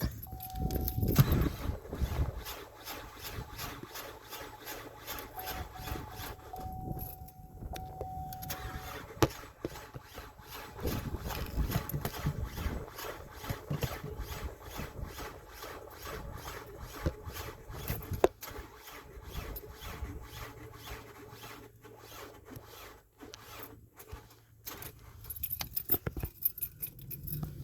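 2011 GMC Acadia being cranked by its starter without the engine catching: a failed start attempt. A steady warning chime sounds in the first second and again from about six to nine seconds in.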